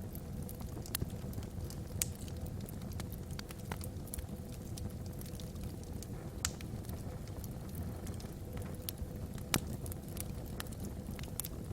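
Wood logs burning in a fireplace: a steady low rumble of the flames with frequent sharp crackles and pops at irregular intervals.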